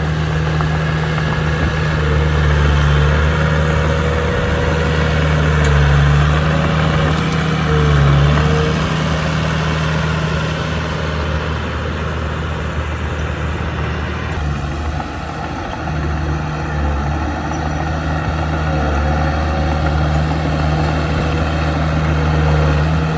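Heavy diesel engine of earthmoving machinery running steadily, its pitch dipping briefly a few times.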